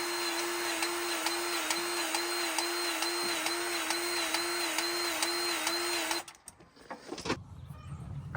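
A small electric motor, like a power tool, runs at a steady pitch with a regular pulse about twice a second, then stops abruptly about six seconds in.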